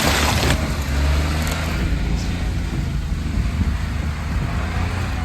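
Daihatsu Hijet mini truck's small engine running steadily as the truck drives on steep, wet, muddy ground. A loud rushing hiss cuts off about half a second in.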